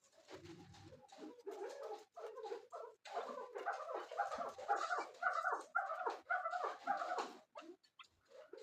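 Chukar partridge calling: a rapid run of short, repeated notes that grows louder and busier about three seconds in, then tails off near the end.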